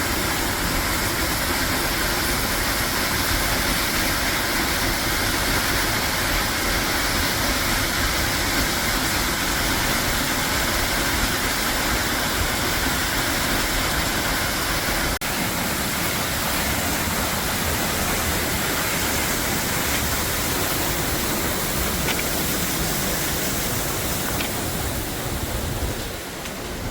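Steady, full rush of Tunnel Falls, a tall waterfall on Eagle Creek, heard close up, with a momentary break about halfway through.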